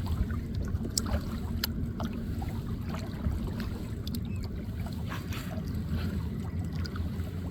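Water lapping and splashing in short sharp ticks against a kayak, over a steady low rumble of wind on the microphone.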